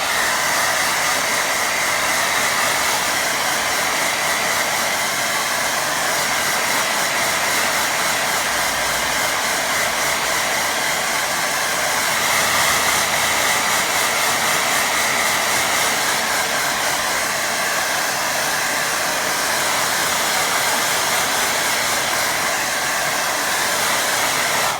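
Hand-held hair dryer blowing steadily, a constant rush of air with a steady whine, drying wet watercolour paint on paper.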